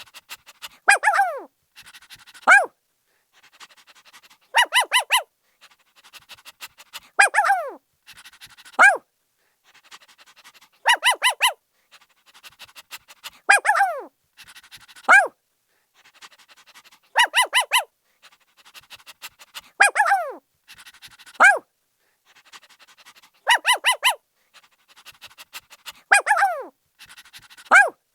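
A puppy barking: a quick run of four short, high yips, then two yelps that fall in pitch, with soft panting between them. The same pattern repeats about every six seconds.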